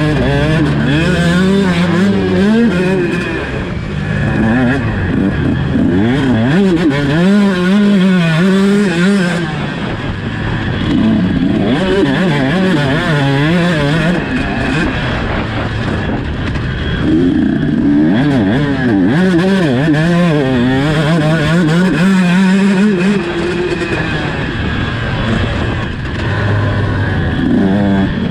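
Two-stroke 125 motocross bike engine, a Husqvarna TC 125, being ridden hard, its revs climbing and dropping over and over.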